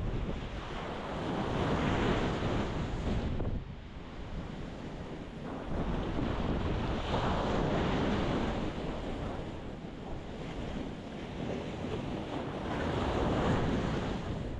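Ocean waves breaking and washing in, swelling three times, about once every five seconds.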